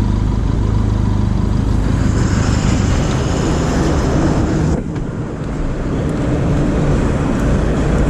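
Motorcycle running at road speed, steady engine and road noise; a little under five seconds in the higher noise drops suddenly and the sound eases off.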